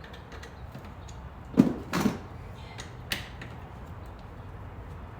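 Handling knocks from a car door handle assembly and its parts being moved on a work surface: two loud knocks close together about a second and a half in, then a lighter click, over a low steady hum.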